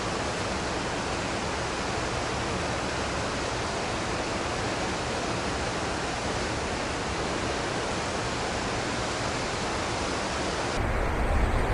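Steady rushing of white water tumbling down a rocky cascade. About a second before the end it changes abruptly to a louder low rumble.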